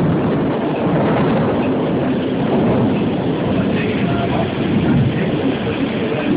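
Heavy rain pouring down with a continuous rolling rumble of thunder in a thunderstorm.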